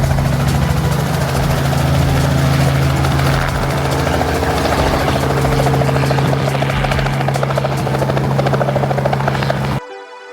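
Helicopter running in flight: a loud, steady rotor and engine noise with a strong low hum and a fast rhythmic beat. It cuts off abruptly near the end, giving way to electronic music.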